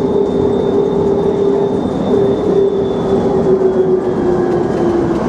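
Skylink automated people-mover car running, heard from inside the cabin: a steady running rumble with a humming motor tone that drops slightly in pitch near the end, and a faint high whine.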